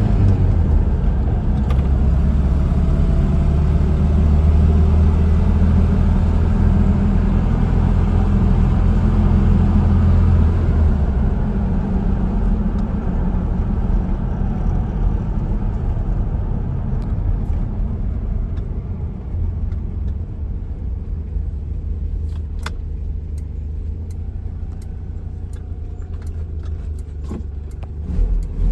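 1985 Nissan 720 King Cab 4x4 pickup's engine running on a cold start, a steady low hum. About ten seconds in it eases to a quieter, steady idle, and a few light clicks come near the end.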